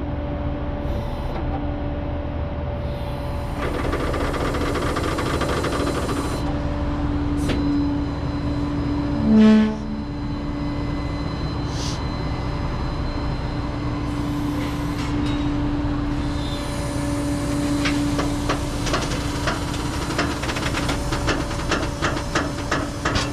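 Truck engine running with a steady hum, a short loud horn beep about nine seconds in, and a run of metallic clicks and rattles near the end.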